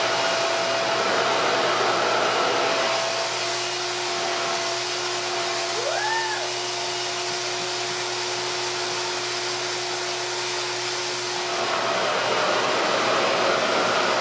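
RevAir reverse hair dryer running steadily, its suction motor giving a continuous airy rush with a steady hum. About three seconds in the sound drops a little and its tone shifts, then it comes back up near the end.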